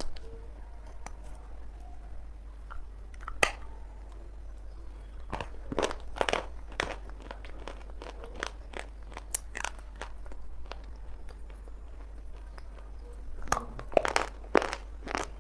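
Chunks of dry multani mitti (Fuller's earth clay) being bitten and chewed: sharp, crisp crunches that come in clusters with short pauses between.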